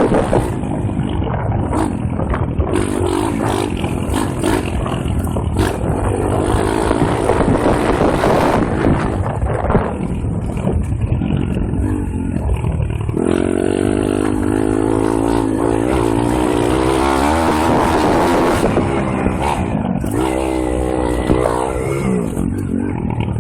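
M2R KX140 pit bike's single-cylinder four-stroke engine being ridden hard off-road, revving up and down through the throttle with a sharp rise in revs about halfway through, wind buffeting the microphone.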